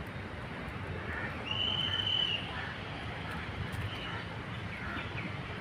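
Outdoor park ambience: a faint murmur of distant voices, with one high whistled call, likely a bird, lasting under a second about one and a half seconds in.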